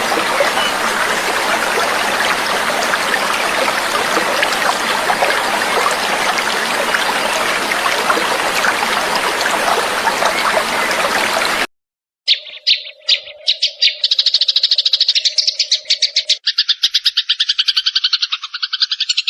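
Steady babbling of a water stream, cut off abruptly about two-thirds of the way through. After a brief silence, a small songbird starts a fast run of chirps that becomes a continuous trill.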